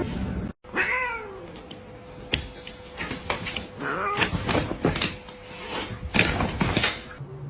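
Domestic cat meowing, short calls about a second in and again around four seconds, among scattered knocks and clicks.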